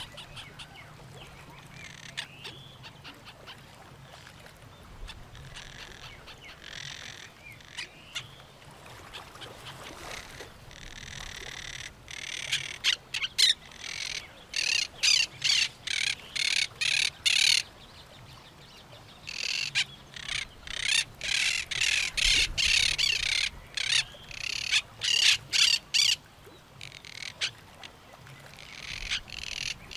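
Parrots squawking in long runs of short, repeated calls, two to three a second, over quieter bird calls. The runs start about twelve seconds in, pause briefly, and pick up again near the end.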